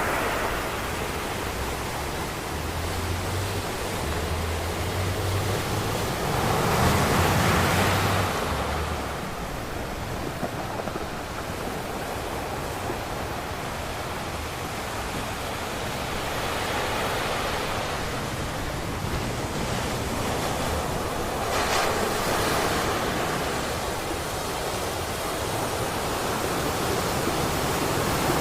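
Ocean waves breaking on a beach, a steady rushing surf that swells and eases, with a louder wave about seven seconds in and another near the three-quarter mark.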